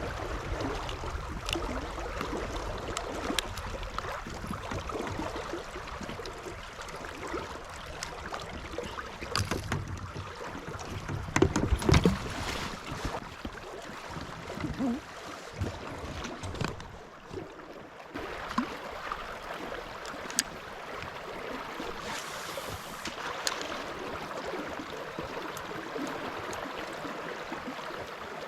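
Outdoor river-bank noise of moving water and wind, with scattered sharp clicks and knocks and a louder run of knocks about twelve seconds in.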